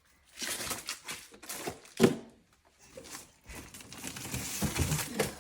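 Frozen breast milk storage bags being handled and shifted in a freezer: plastic crinkling, and hard knocks as frozen bags hit each other, with one louder knock about two seconds in.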